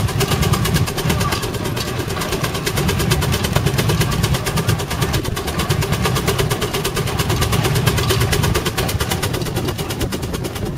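Half-scale Case steam traction engine working under load, its exhaust beating in a rapid, even rhythm over a steady low rumble and hiss.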